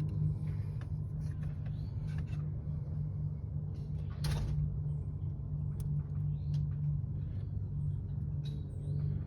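Chevrolet Equinox engine running at a steady idle with a low hum, after a head gasket repair. A brief rushing noise comes about four seconds in.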